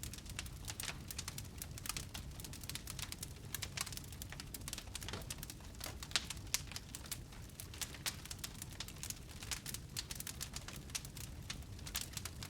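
Wood fire burning in a fireplace: dense, irregular crackling and popping of burning wood over a low, steady rumble of the flames.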